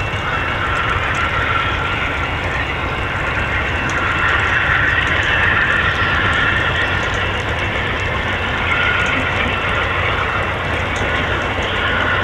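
VIA Rail passenger train running slowly away, giving a steady low rumble under a wavering high-pitched whine.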